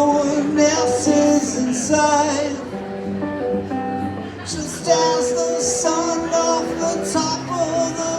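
A live band playing the opening of a song, with held notes and a melody line.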